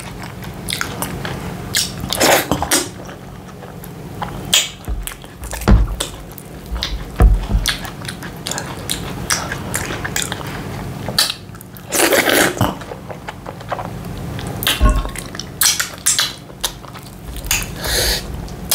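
Close-miked eating of semolina fufu dipped in slimy ogbono soup: wet chewing and lip smacking with scattered short clicks, over a low steady hum.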